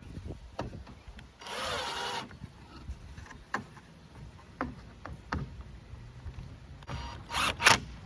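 Power drill briefly driving a screw into wood for under a second, about a second and a half in, then scattered clicks and knocks and two short, louder bursts near the end.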